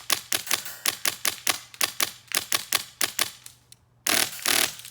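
Valken V12 HPA engine in an airsoft rifle firing a fast string of single shots, about five a second, then a full-auto burst of nearly a second near the end.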